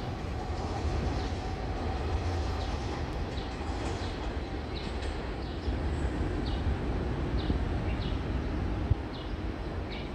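Low, steady rumble of a Taiwan Railway train running away from the platform, easing slightly near the end. Short high chirps sound every second or so over it.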